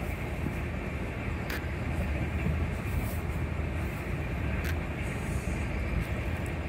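Rajdhani Express train running at speed: a steady rumble of wheels on track, with a couple of faint clicks.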